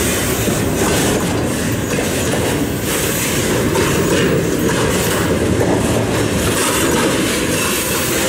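Freight train's container flatcars rolling past close by: a steady rumble of steel wheels on the rails, with repeated clacks as the wheels pass over the rail joints.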